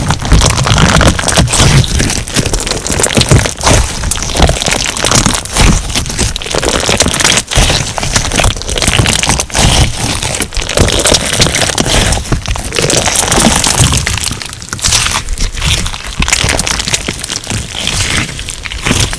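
Crunch slime being squeezed and worked by hand, giving a dense, irregular run of crackles and pops.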